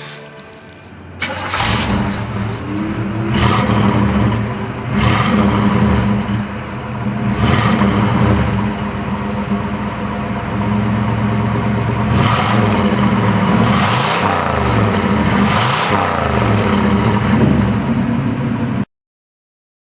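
1979 Pontiac Trans Am's Oldsmobile 403 V8 running and being revved again and again, its pitch rising and falling with each blip of the throttle. It starts abruptly about a second in and cuts off suddenly near the end.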